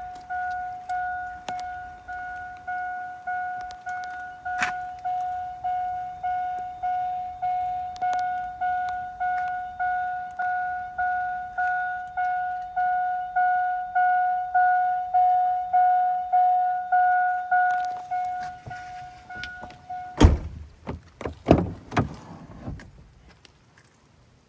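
Vehicle warning chime of a 2002 Chevrolet Avalanche pinging steadily about twice a second. It stops with a loud thump about 20 seconds in, followed by a few more knocks.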